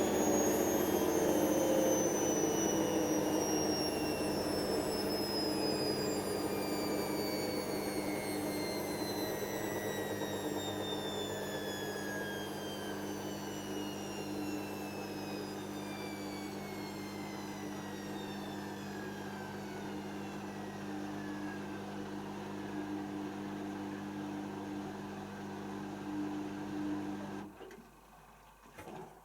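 Hoover DYN7144XD1 washing machine slowing down after its spin: a whine falls steadily in pitch over a steady hum while the sound gradually fades, then cuts off suddenly near the end, followed by a brief knock.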